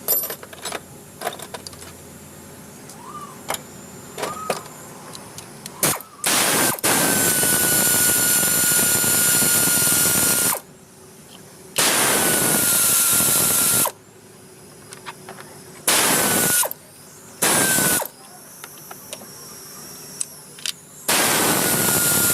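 A power tool is run in five bursts of half a second to several seconds. Each run has a steady whine that dips slightly in pitch as it starts. Light clicks and taps of metal work come in the first few seconds and between runs.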